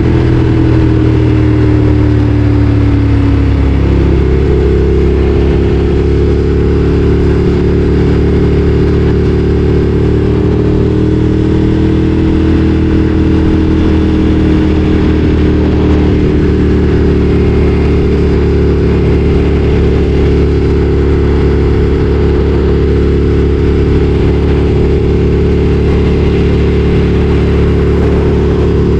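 Ducati Streetfighter 848's L-twin engine running under way: its note sinks over the first few seconds, rises about four seconds in, then holds a steady cruising pitch.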